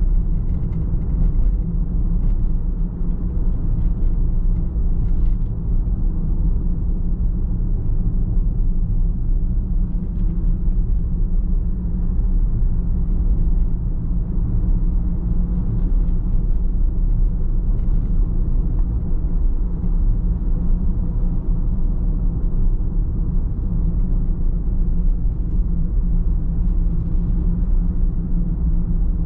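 Car driving at a steady speed: an even, low rumble of tyre and engine noise.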